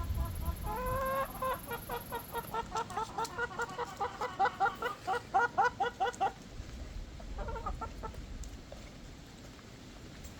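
Hens clucking in a quick run of short calls, about five a second, for several seconds, with a brief second burst shortly after.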